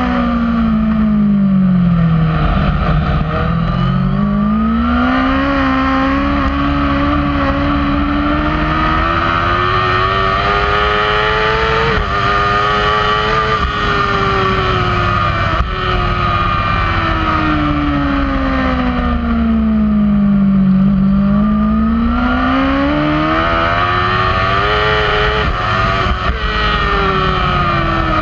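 Kawasaki superbike's inline-four engine at racing revs, heard from on the bike with wind rush over the microphone. The engine note drops at the start as the bike slows into a corner, then climbs with quick breaks at the gear changes until about halfway. It falls again to a low point about three quarters of the way through, then climbs hard once more near the end.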